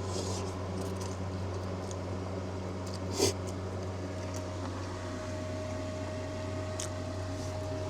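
Steady low mechanical hum with a brief breathy noise about three seconds in; a faint steady tone joins it about five seconds in.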